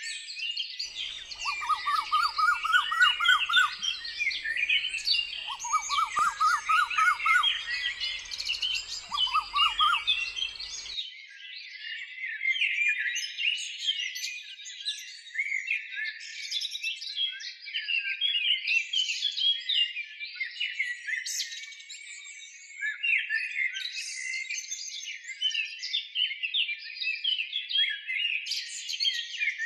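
Many birds chirping and twittering at once, a dense chorus of short high calls. In the first ten seconds a lower, rapid run of repeated notes comes three times, then the lower sounds cut off abruptly and only the high chirping remains.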